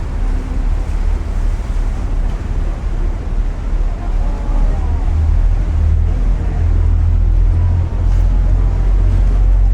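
Sightseeing ship under way: a steady low rumble of the engine and wind, with water noise and faint voices behind it, growing slightly louder in the second half.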